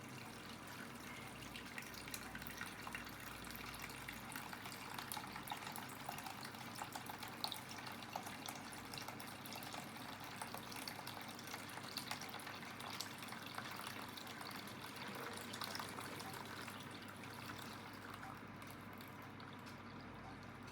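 Aidoo 1 kg mini washing machine draining: water trickling and spattering out through the drain, thinning out near the end.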